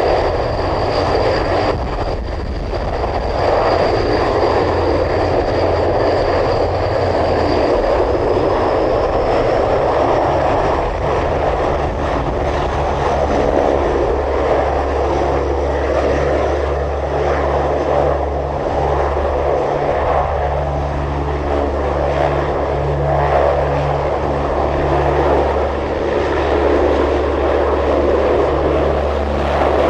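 Propeller aircraft engines running steadily and loud, with a thin high whine that rises slightly in pitch about eight seconds in.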